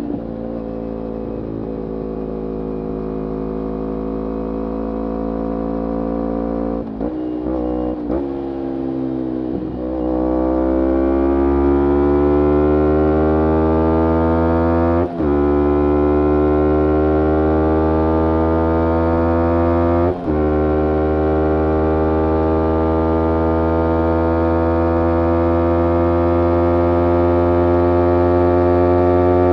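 Kawasaki Ninja 250R parallel-twin engine running through a full Graves racing exhaust, its note climbing slowly in pitch. It falters briefly a few times about a third of the way in, then climbs more strongly and holds, with two short sharp dips in the note later on.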